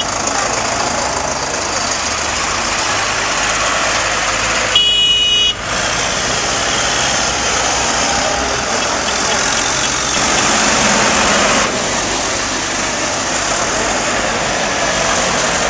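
Tractor engines running together in a procession, a loud steady din, with a horn sounding briefly about five seconds in.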